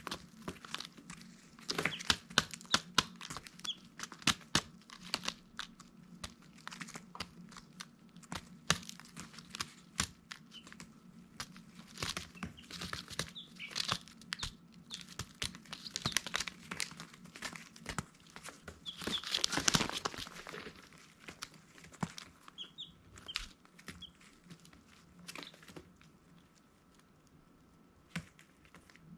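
Baby chicks pecking and scuffling on litter: many sharp clicks and rustles, with a few short high peeps, the loudest about two-thirds of the way through. A steady low hum runs beneath, and the clicking thins out near the end.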